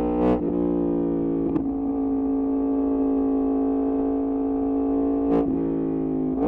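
Yamaha MT-10's 998 cc crossplane inline-four running through an Austin Racing aftermarket exhaust, holding a steady engine note. The note breaks off briefly twice, early on and again near the end.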